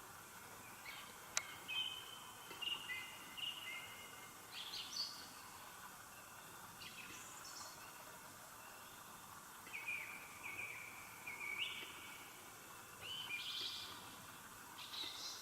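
A small bird singing short whistled phrases in several bursts over a faint steady hiss, with one sharp click about a second and a half in.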